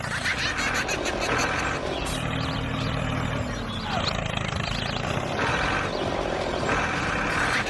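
Small tractor motor running steadily with a low drone, with short higher-pitched whirring stretches a few times.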